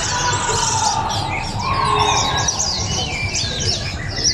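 Caged white-eyes (pleci) singing together: dense, rapid, high chirps and quick falling notes overlapping, with a few longer held whistles.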